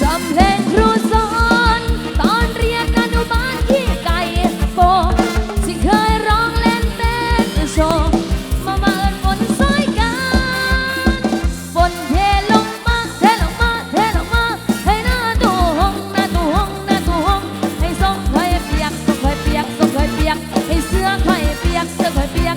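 Isan dance music from a rot hae sound-truck band, played loud: an instrumental stretch with a fast, steady kick-drum beat under a lead melody whose notes bend and slide.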